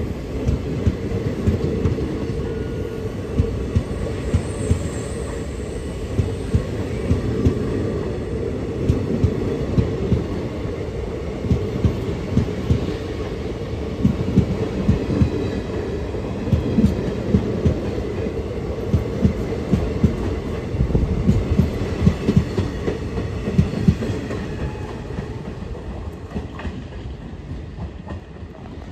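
Nauchandi Express passenger train running on the track: a steady low rumble with irregular clicks and knocks of the wheels over rail joints, fading away over the last few seconds.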